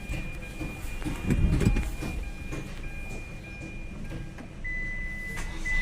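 Electronic warning tones from a car as the ignition is switched on before starting: a high beep repeating with short gaps, then a steady, slightly lower tone near the end, with a few dull thumps about a second and a half in.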